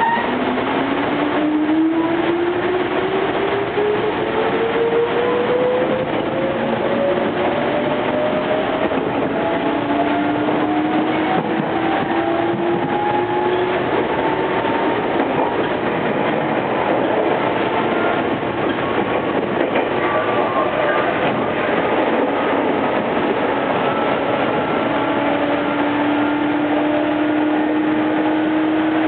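Meitetsu 5300 series electric train running, its traction motors and gears whining and rising steadily in pitch as it accelerates over the first fifteen seconds or so, then holding at speed over a steady rumble of running noise.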